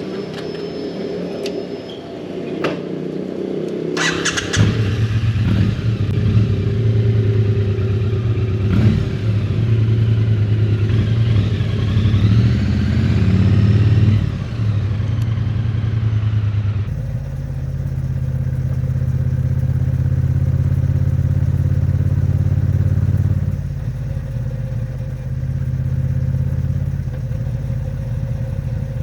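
Triumph Bonneville T100's 900 cc parallel-twin engine running. About four seconds in there is a sudden sharp sound, after which the engine note is loud and steady with a rising whine. At about 17 seconds the sound changes abruptly to a steady lower drone.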